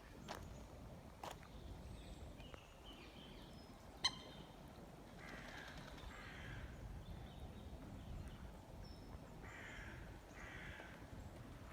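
Harsh, caw-like bird calls in two pairs: two calls about five seconds in, then two more about three seconds later. A sharp click about four seconds in is louder than the calls.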